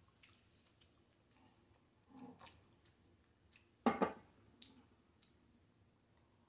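Close-miked chewing with scattered wet mouth clicks and smacks. About four seconds in comes a single louder thump.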